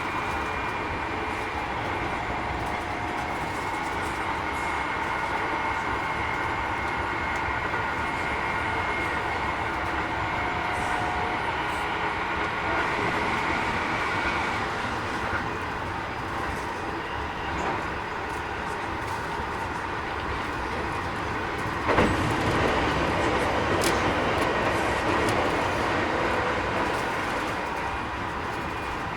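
Keikyu 1000 series electric train with a Mitsubishi IGBT inverter, heard from on board while running: steady whining tones from the drive over continuous wheel and rail noise. The tones fade out about halfway through, and there is one sharp knock a little after that. The uploader finds this train slightly noisier than other sets of the same class.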